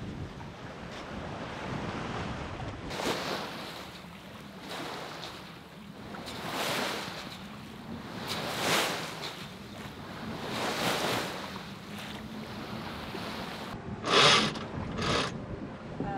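Water washing and splashing along the hull of a sailboat under way, swelling and fading about every two seconds, with wind on the microphone. Two short, loud rushes of noise come near the end.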